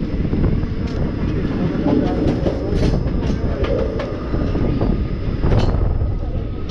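Indian Railways passenger coach running at speed, heard from its open doorway: a steady, dense rumble of wheels on rail. Scattered sharp clicks and clanks sound over it, the loudest a little past the middle.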